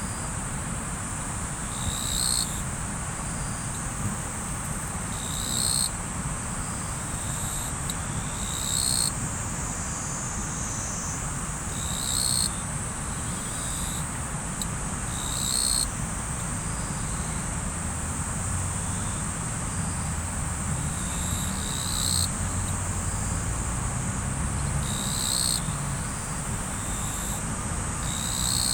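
Insects trilling steadily at a high pitch over the low rush of river water, with a short, louder call repeating about every three seconds.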